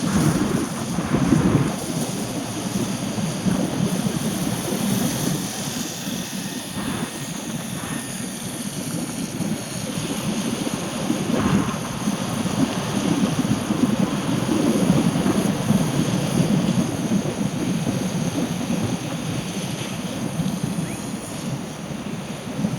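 Steady rushing noise of a car driving on a rain-wet road: tyre and wind noise with no clear engine note, rising and falling slightly.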